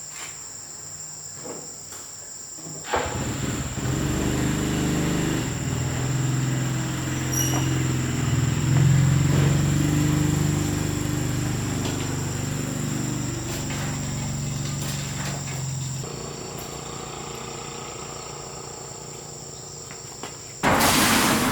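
An engine runs nearby for about thirteen seconds, its pitch wavering, then fades out, over a steady high buzz of insects. Near the end a sudden loud noise cuts in.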